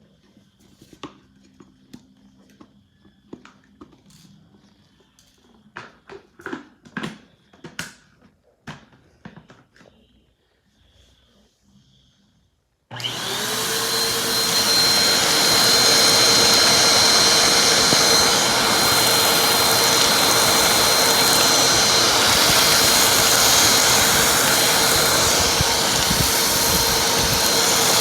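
Scattered light clicks and taps. About halfway through, a vacuum cleaner switches on, spins up and runs steadily, with a high whistle over the motor for a while.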